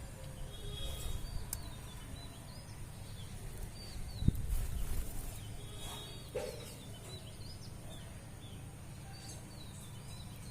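Small birds calling outdoors in short, quick chirps, repeated many times, over a low rumble of wind or handling noise. A single sharp knock about four seconds in.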